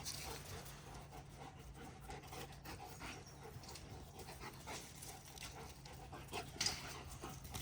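A dog panting, with scattered soft taps and a brief louder noise near the end.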